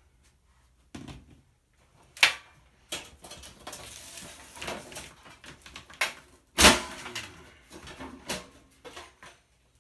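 Sheet-metal toaster oven casing being handled and worked apart by hand, with clanks, rattles and scraping of metal parts. Two sharp knocks stand out, the louder about six and a half seconds in.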